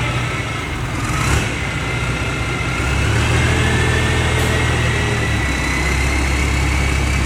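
Engine of a forage corn harvester running steadily, with a high mechanical whine that slowly rises in pitch and a single sharp knock about a second in; the low engine hum grows stronger partway through.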